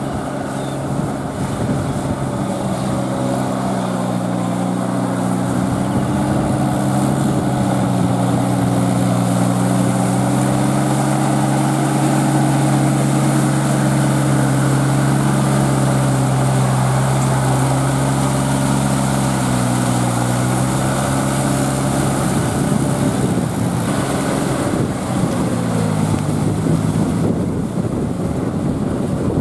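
Kubota L3408 tractor's diesel engine running under load while puddling with a rotavator, its pitch sagging and recovering several times.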